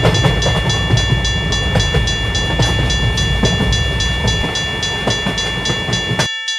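A train rumbling past with a railroad crossing warning bell ringing over it in a fast, even rhythm of about three strikes a second. The train noise cuts off abruptly near the end, leaving the bell ringing on its own for a moment.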